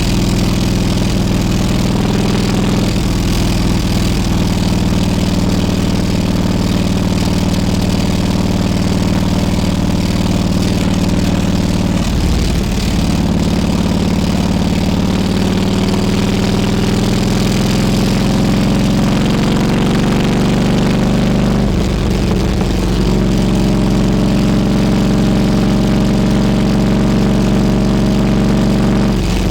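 Harley-Davidson Road King Classic's V-twin engine running as the bike rides, its note climbing slowly in pitch. The note breaks off and restarts lower twice, about twelve and twenty-two seconds in, at gear changes.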